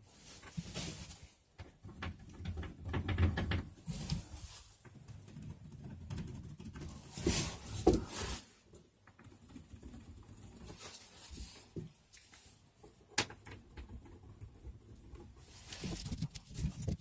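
Irregular scraping, rubbing and rustling from hand work on XPS foam board and tools, with scattered knocks and a sharp click about thirteen seconds in.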